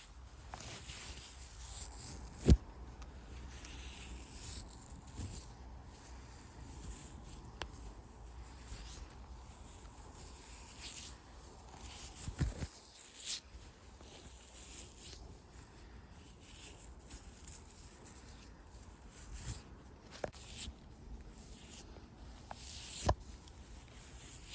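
Irregular rustling and crunching of dry leaves and forest-floor debris, with three sharp, louder cracks spread through it.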